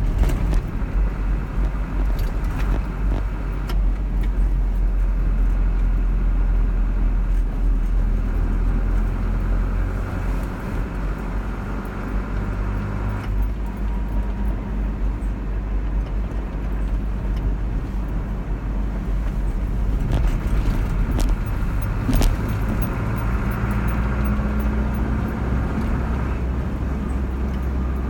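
Car driving on a road: steady low engine and tyre rumble, the engine note shifting slightly now and then, with a few light clicks.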